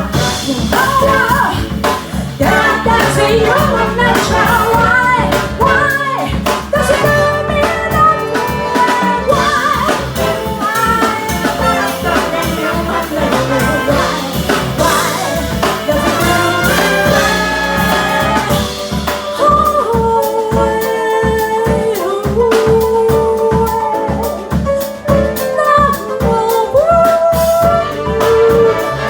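Jazz big band playing an instrumental passage, brass and saxophones to the fore over a steady rhythm-section beat.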